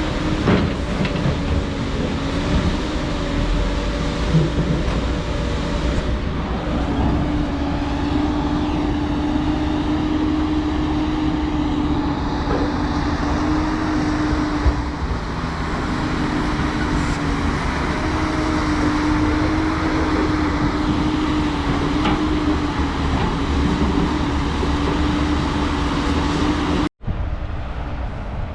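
Heavy diesel construction machinery running steadily, with a wavering whine over the engine noise and occasional knocks. The sound cuts out abruptly near the end and resumes quieter.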